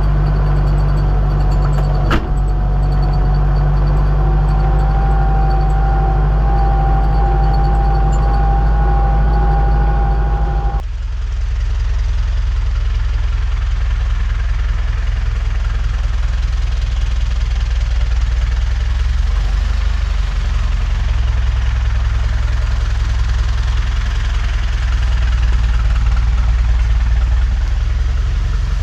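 Diesel engine of working farm machinery running steadily, with a thin high whine over the drone and a single click about two seconds in. About eleven seconds in the sound changes abruptly to a rougher, noisier engine drone.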